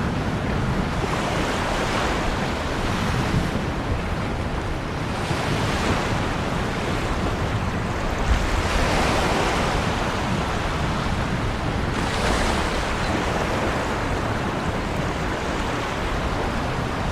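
Ocean waves breaking and washing on the shore in a continuous surf, swelling and ebbing every few seconds over a steady low rumble.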